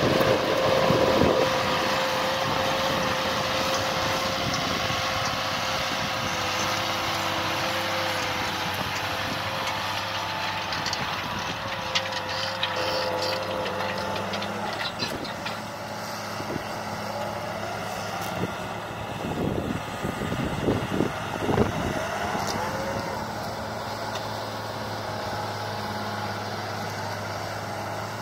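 Renault Ares 640 tractor's diesel engine running steadily while ploughing and turning. Its tone shifts about halfway through, and a few sharp knocks and clanks come in the middle stretch.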